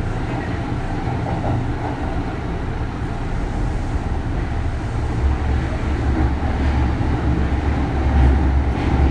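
Interior running noise of a Kintetsu 3200 series electric train's motor car, a steady deep rumble of wheels and running gear on the rails that grows louder about halfway through.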